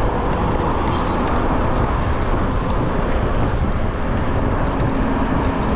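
Steady wind and road noise from riding an electric bicycle through city traffic.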